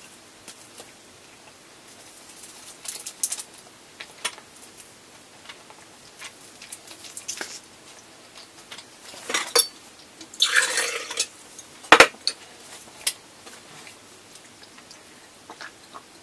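Soft chewing and mouth noises from eating a chocolate stick, with scattered small clicks and handling noises, a longer rustling noise about ten and a half seconds in, and a sharp knock about twelve seconds in.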